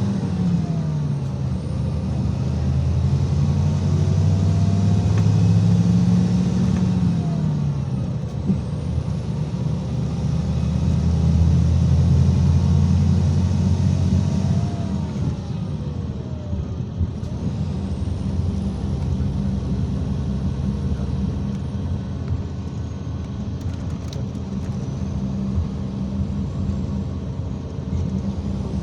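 IVECO Crossway 13M city bus under way, its diesel engine note climbing and dropping back twice in the first half, then running steadier, over constant road noise.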